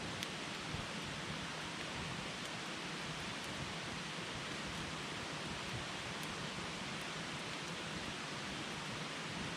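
Wood campfire burning with a steady hiss and a few small, sharp crackles.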